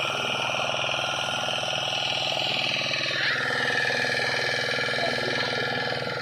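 An engine running steadily with a fine, even pulse; its higher tones shift about three seconds in.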